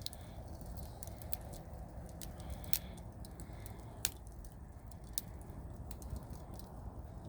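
Wood campfire crackling, with irregular small pops and two louder snaps about three and four seconds in, over a low steady rumble.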